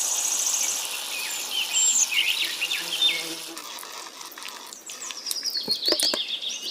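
Small birds chirping in quick, short rising and falling notes over a high, steady insect trill that fades after the first second or so; a few sharp clicks come in the second half.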